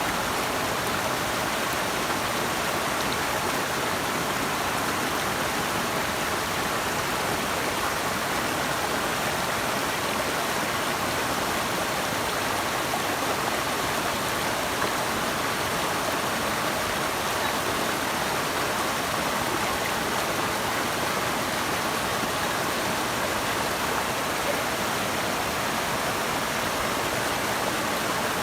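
Running water of a river or waterfall: a steady, even rush with no breaks.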